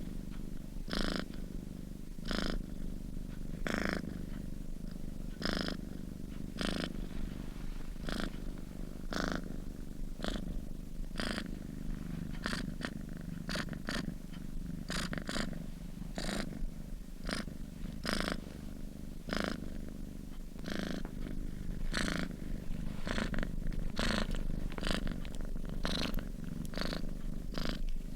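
Sleeping domestic cat purring steadily, the purr swelling in a regular rhythm about once every second or so with its breathing.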